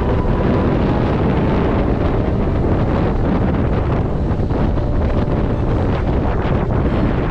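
Wind buffeting the microphone: a loud, steady noise heaviest in the low end.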